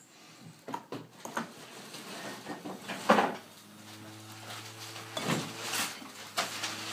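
Scattered clicks and knocks of handling, the loudest about three seconds in. Then, about four seconds in, the motor of an electric paper airplane launcher starts a steady low hum.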